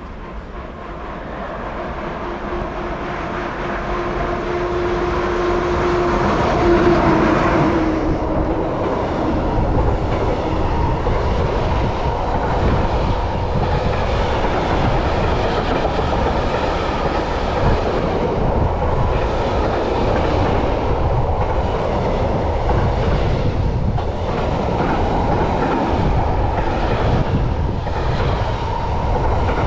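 Electric-hauled container freight train passing close by, growing louder as it approaches. A steady hum, dropping slightly in pitch, comes as the locomotive goes by about seven seconds in. Then the container wagons keep rolling past with a continuous rumble and rhythmic clickety-clack of wheels over rail joints.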